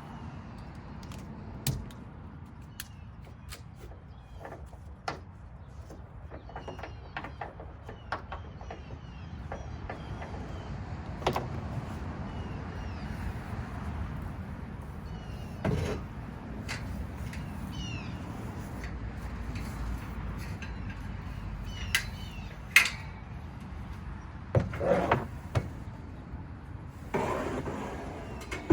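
A ratchet tie-down strap being released and motorcycle loading ramps being slid into a pickup bed: scattered clicks and clunks, with longer scrapes near the end.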